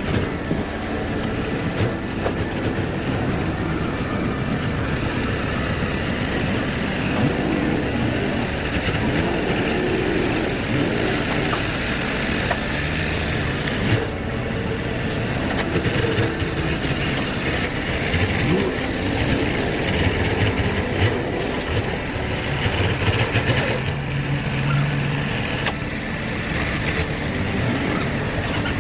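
A heavy vehicle running: a steady rumble with scattered rattles and clatter.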